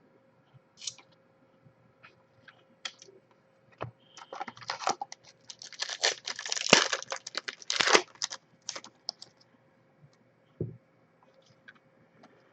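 Trading cards and their pack being handled on a table: scattered light clicks and flicks, then a few seconds of dense crinkling and card flicking in the middle, settling back to sparse clicks near the end.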